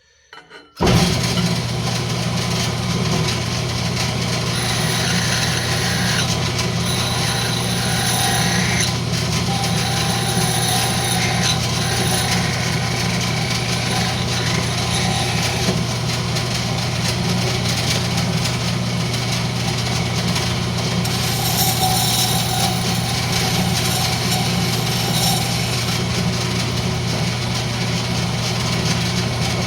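Wood lathe switched on about a second in and running steadily with a low hum, while a turning tool cuts the spinning rosewood blank, adding a higher hiss that comes and goes.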